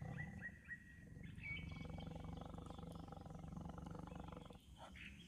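A faint, low, steady growl, the strange sound taken for a tiger in this forest. Before it, in the first second, a bird calls in quick repeated chirps, about four a second.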